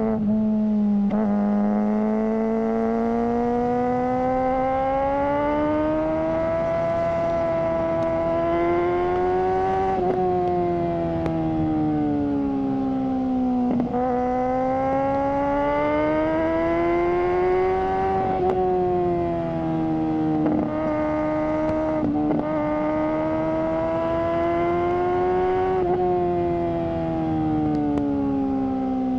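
Suzuki GSR600's inline-four engine through a GPR Ghost aftermarket exhaust, running under way. Its note climbs slowly for several seconds and falls back again, about three times, with a few brief sharp breaks in between.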